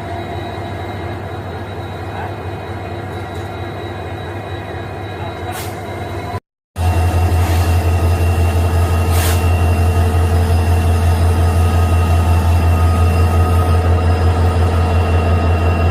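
Train running with a steady rumble and a continuous hum. After a sudden break about six and a half seconds in, a louder low drone follows with a fast, even pulsing.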